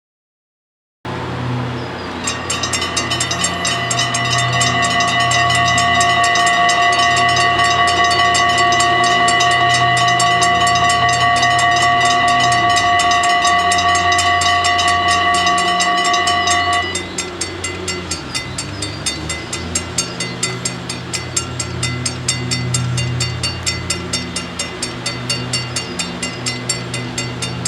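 Dutch level-crossing bells ringing in rapid, even strokes while a train passes with a low rumble. A steady whine of several pitches sounds over them and cuts off suddenly about two-thirds of the way through.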